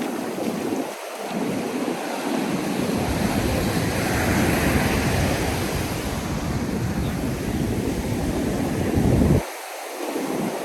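Ocean surf breaking and washing up the sand, a steady roar of noise, with wind buffeting the microphone as a heavy low rumble that drops away briefly about a second in and again near the end.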